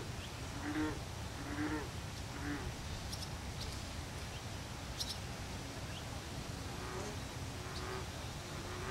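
Short bird calls, three in the first few seconds and fainter ones near the end, over a steady low background rumble, with a few faint high chirps in between.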